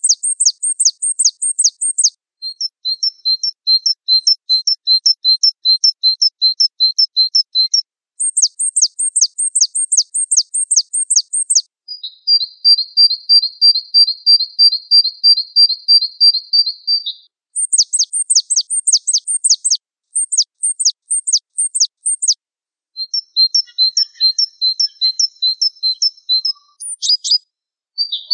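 Gelatik Wingko song: rapid trains of high, clipped, down-slurred notes at about five a second. Each phrase lasts a few seconds, and the bird switches to a different repeated note type after each brief pause.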